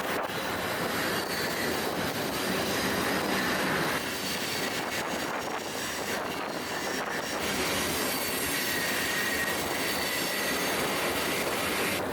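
Freight train in motion: the steady noise of its wheels and cars on the rails. A faint high wheel squeal comes in about two-thirds of the way through.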